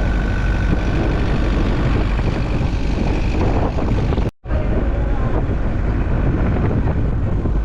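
Steady road and wind noise from a moving vehicle, a dense low rumble with wind buffeting the microphone. The sound cuts out for an instant about four and a half seconds in.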